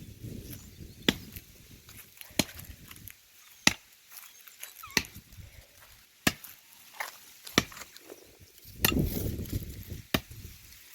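Axe strokes chopping into the trunk of a standing tree: sharp, evenly paced blows about one and a quarter seconds apart, eight or nine in all.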